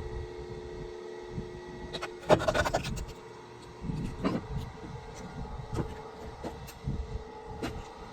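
Firewood being worked: a clatter of wooden knocks about two seconds in, then single knocks every second or so, over a steady low mechanical hum.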